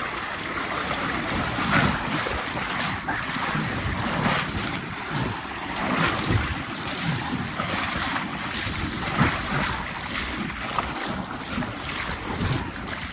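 Fast river current rushing and sloshing around legs wading thigh-deep through it, with irregular splashes, and wind buffeting the microphone.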